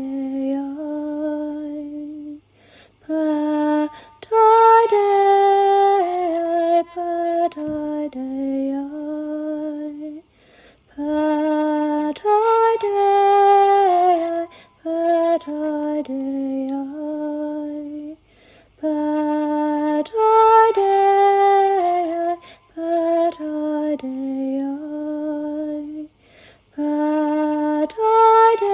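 A woman's solo voice singing a slow, melodic chant in repeated phrases, with short pauses between them.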